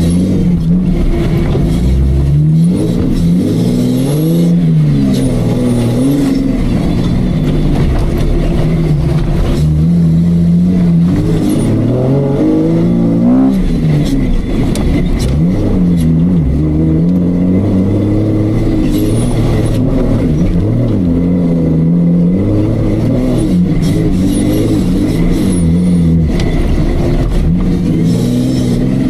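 Off-road Jeep's engine revving up and down over and over, its pitch rising and falling every few seconds as the throttle is worked.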